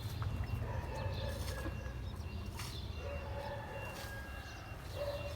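Faint calls of backyard poultry and pigeons over a low, steady rumble.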